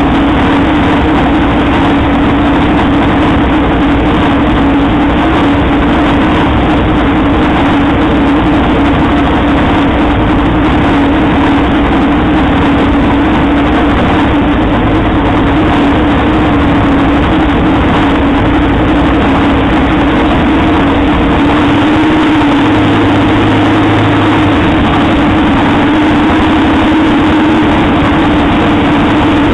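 Turbocharged VW Beetle drag car engine idling steadily, heard loud from inside the caged cabin. Its deep low end shifts about two-thirds of the way through.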